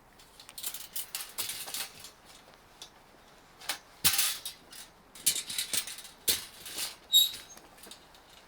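Irregular rustles and light knocks, bunched most thickly from about four to seven seconds in, with a brief high ting just after seven seconds.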